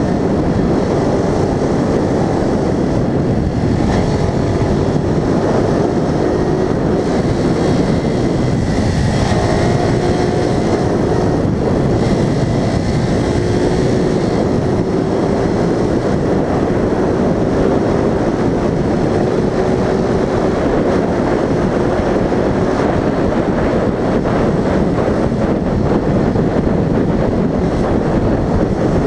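Vehicle driving along a winding road, heard from on board: steady, loud road and wind noise with an engine tone that rises and falls a little.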